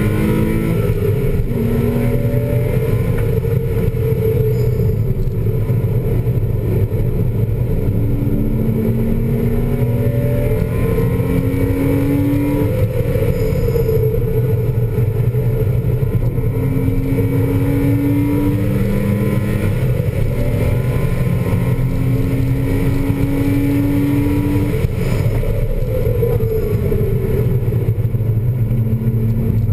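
A 2000 Porsche Boxster S's 3.2-litre flat-six engine, heard from inside the cabin while driving hard on a track: the revs climb again and again, then drop back as the car eases off, over a steady low drone.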